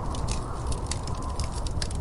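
Wood fire crackling in a fireplace: many quick, irregular pops and snaps over a steady low rush of noise.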